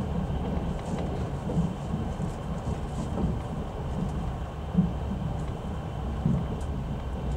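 Passenger train carriage rolling along the track, heard from inside the car: a steady low rumble with a short knock about every second and a half, the wheels passing over rail joints.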